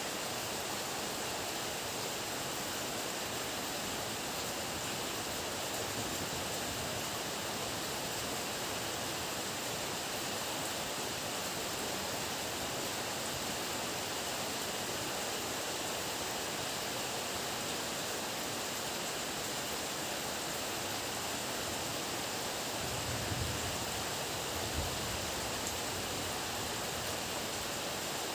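Heavy rain falling steadily, a dense even hiss. A couple of brief low thumps come near the end.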